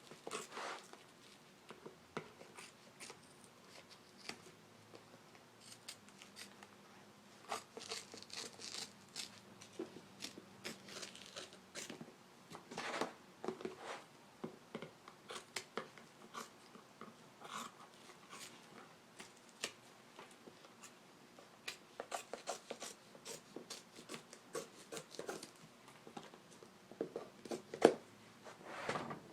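Scissors snipping away excess seat-cover material, with faint, irregular snips and clicks scattered throughout and brief clusters about 8, 13 and 22–25 seconds in.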